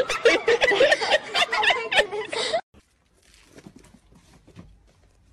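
People laughing and chuckling, cut off suddenly about halfway through, followed by faint quiet sounds.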